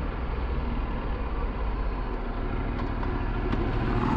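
Ducati Multistrada 1260 S's V-twin engine running steadily at low speed under a rush of wind and road noise.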